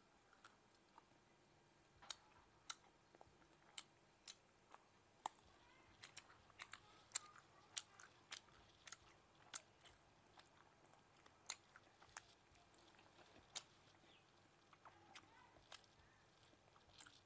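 Close-miked biting and chewing of grilled frog meat off the bone: irregular sharp mouth clicks and crunches, sometimes several in quick succession.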